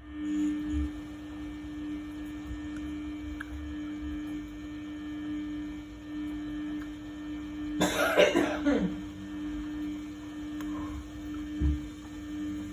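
Samsung WF1700WRW front-loading washing machine running its daily programme, its drum motor giving a steady hum that starts as the drum begins to turn. A brief louder noise cuts in about eight seconds in.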